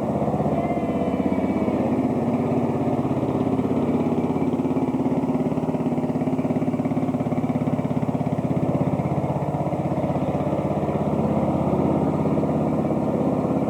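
Riding lawn tractor's small engine running steadily as the tractor drives along.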